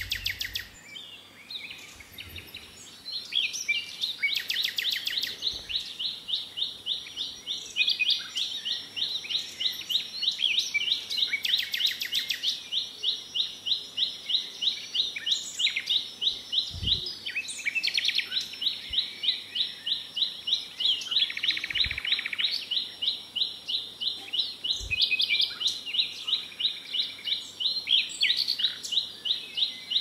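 Little spiderhunter singing: a long, monotonous run of rapid high notes, about four a second, starting a few seconds in. Other birds' short chirps sound over it now and then, along with a few soft low thumps.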